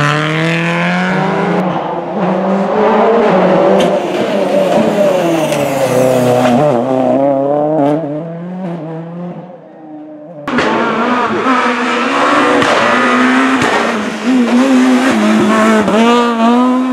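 Rally car engines at full throttle on a special stage, the pitch climbing and dropping again and again through gear changes, with occasional sharp cracks. The engine fades away briefly, then a different car cuts in abruptly about ten seconds in.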